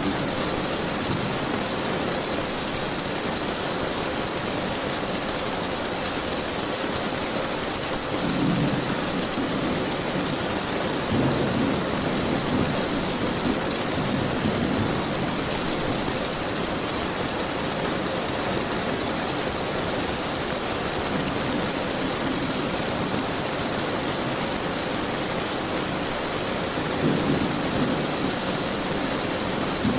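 Steady heavy rain in a thunderstorm, with low rolls of thunder swelling about eight seconds in, again a few seconds later, and near the end.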